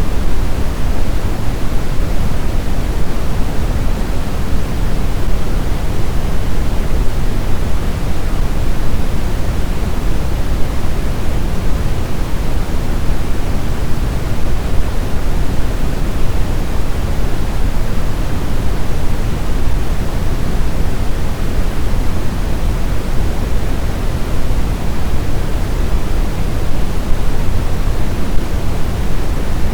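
Snowstorm wind blowing steadily: an even, deep rushing noise with no gusts, howls or breaks.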